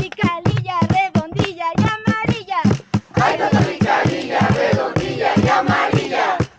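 Group campfire song: one voice sings a line, then many voices sing together about three seconds in, over a steady beat of short strokes.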